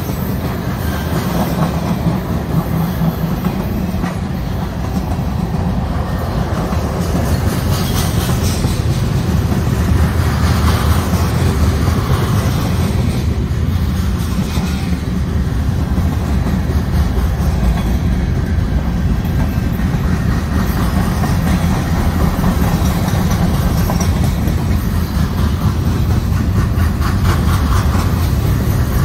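Manifest freight train's cars (tank cars, covered hoppers and centerbeam flatcars) rolling past at close range: a steady rumble of steel wheels on rail, with rhythmic clicking as the wheels cross rail joints, most plainly near the end.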